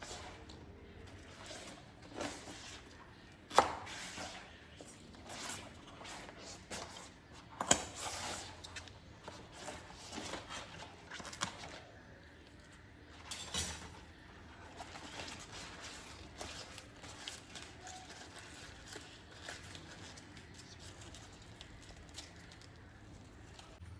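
Hand food preparation: scattered sharp knocks and clicks with soft rustling and tearing between them.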